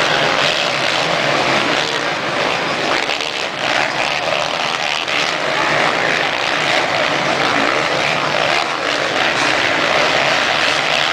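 Motocross bikes' engines running, a steady buzzing drone with no break.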